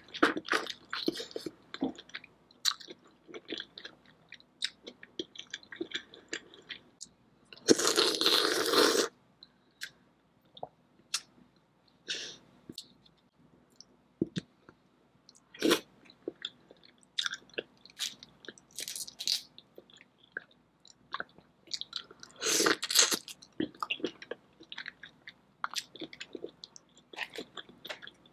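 Close-miked chewing and lip-smacking of boiled prawns and lobster in a thick Cajun butter sauce, with many short wet clicks and smacks. A louder rushing sound lasts about a second and a half about eight seconds in, and a shorter one comes about 23 seconds in.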